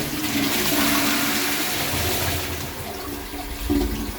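Balterley Ambience toilet flushing: a loud rush of water that eases off after about two and a half seconds into a quieter running and refilling.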